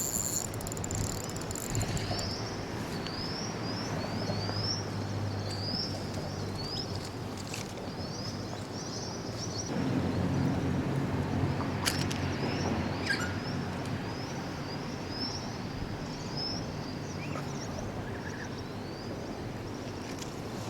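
Small birds chirping in runs of short, quickly repeated calls over a steady low rumble that swells about halfway through, with a couple of sharp clicks near the middle.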